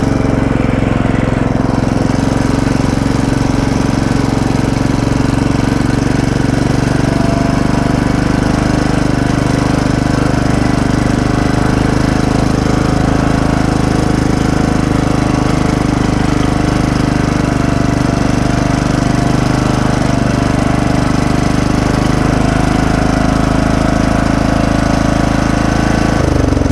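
Craftsman LT1000 lawn tractor's engine running steadily close by, with a hard, even beat. Near the end its speed drops.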